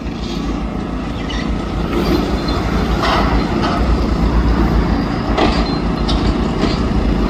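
Demolition excavator's diesel engine running steadily, with several crunching, clattering knocks about three seconds in and again around five and a half to six seconds in as it breaks down the building.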